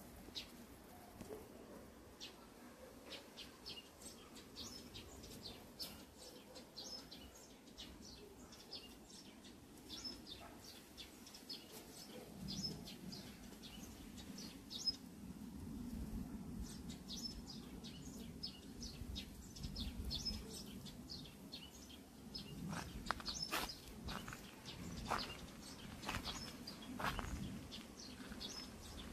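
Small birds chirping faintly and repeatedly in short high notes. In the last third a few sharper clicks or taps come through as well.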